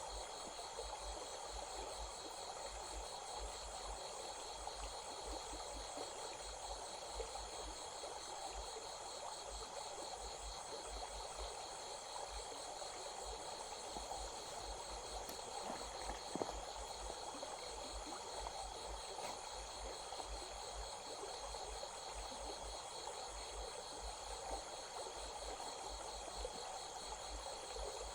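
Steady chorus of insects trilling in pulsing high bands, over the even rush of a flowing stream.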